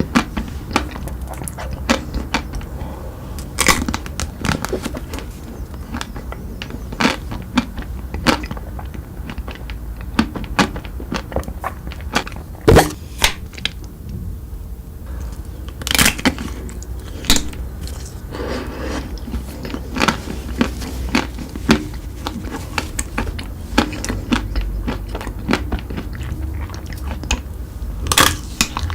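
Biting into and chewing chocolate treats: irregular crunches and sharp snaps, a few of them louder.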